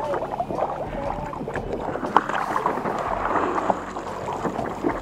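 Water splashing and sloshing against a small sailing dinghy, with irregular knocks and a sharp one about two seconds in, and wind on the microphone.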